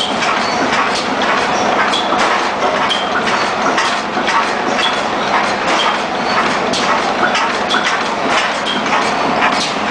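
Parmaco side-shaft HVID Brons cup oil engine with a flyball governor running, a steady busy clatter of quick clicks from its valve gear and side shaft, with a short high chirp recurring about once a second.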